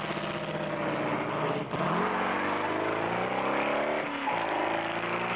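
Hot rod's supercharged engine accelerating hard away from the line. Its pitch climbs, drops sharply about two seconds in and again about four seconds in, and climbs again each time, like gear changes.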